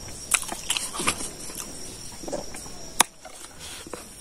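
Close-up mouth sounds of eating pork leg and rice: wet chewing and lip smacks with a few sharp clicks, the loudest about three seconds in.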